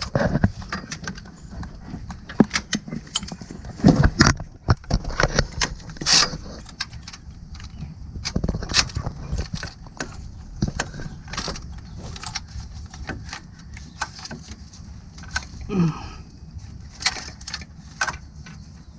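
Hand tools working on engine bolts: a socket and ratchet clicking and metal tools and bolts clinking, in irregular sharp clicks and knocks.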